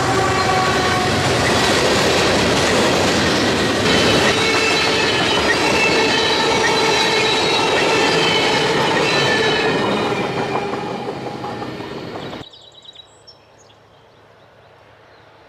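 Train rolling past close by, loud rail and wheel noise with high squealing tones from the wheels. The noise fades from about ten seconds in, then drops off abruptly to quiet outdoor background.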